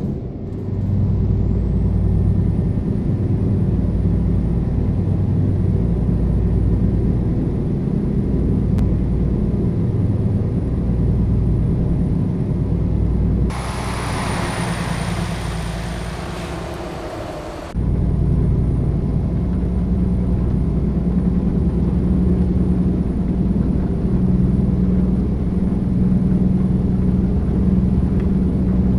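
Scania G-series truck's diesel engine running with a steady low drone. Midway, a hissing stretch of about four seconds fades down before the engine drone returns abruptly.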